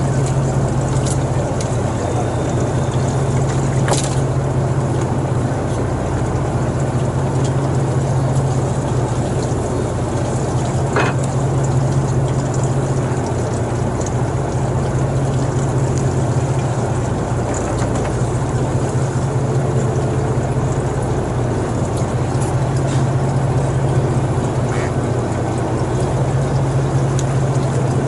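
Boat engine running steadily with a constant low hum, with water noise. A couple of sharp clicks sound, about four and eleven seconds in.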